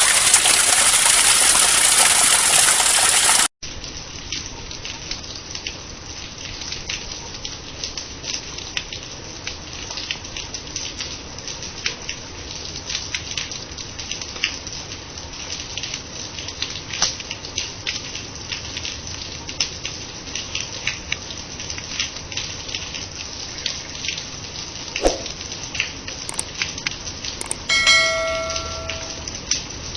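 Loud rushing downpour that cuts off abruptly about three and a half seconds in, giving way to steady rain pattering, with many separate drops heard. Near the end, a brief ringing tone sounds and fades.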